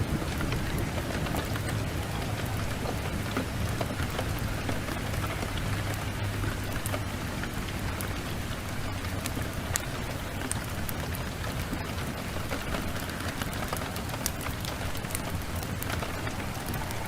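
Steady rain mixed with a crackling wood fire: sharp pops and snaps scattered throughout over a continuous hiss, with a low rumble strongest in the first half.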